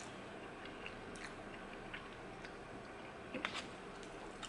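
A person chewing a mouthful of pasta, with faint wet mouth clicks scattered throughout and a slightly louder pair of clicks about three and a half seconds in.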